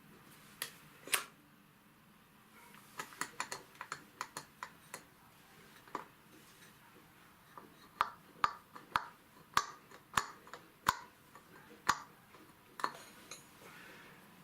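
Irregular sharp metallic clicks and light taps from hand tools working at a starter motor being taken apart, its end cover stuck on the shaft. There is a cluster a few seconds in, then a run of single taps about half a second to a second apart in the second half.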